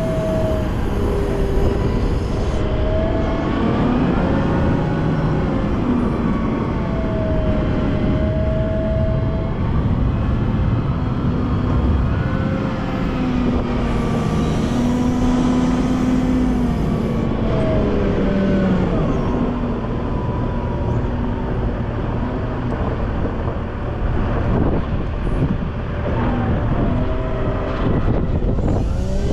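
Volvo L90F wheel loader's diesel engine working while clearing snow, its pitch rising and falling again and again with changing revs, with whining tones that glide along with it over a heavy rumble.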